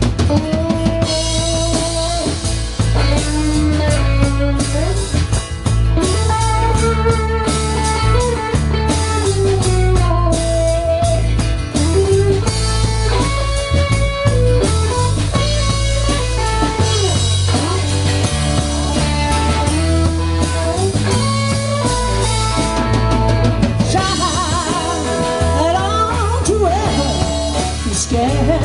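Live band playing an instrumental break: drum kit and bass keep a steady beat under a lead melody with bending, sliding notes that sound like a guitar solo.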